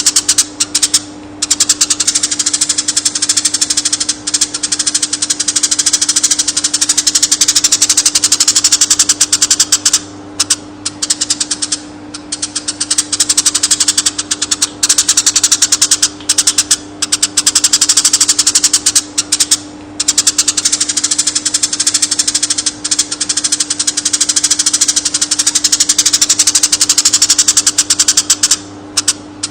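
Konin bird singing long runs of rapid chattering, ticking notes, broken every few seconds by short pauses, over a steady low hum.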